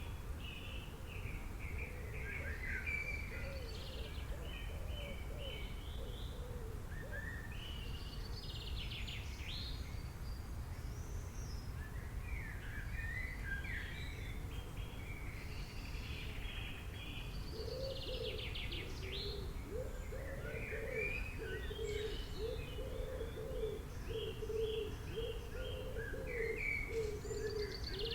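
Several birds chirping and singing in quick, overlapping phrases, with lower repeated calls joining in about halfway through, over a steady low rumble of background noise.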